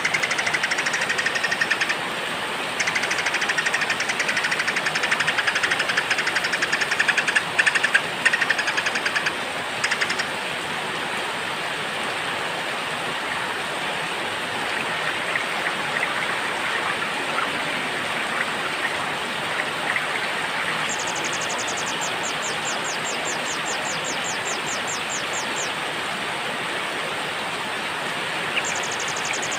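Steady heavy rain with small birds chirping. Fast, dense chirping runs through the first ten seconds, and a rapid high trill comes in about two-thirds of the way through.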